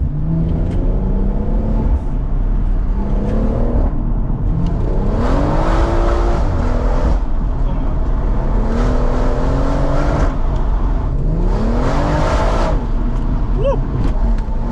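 BMW M140i's turbocharged straight-six under full-throttle acceleration, its note rising through the revs and dropping at each upshift, several pulls in a row.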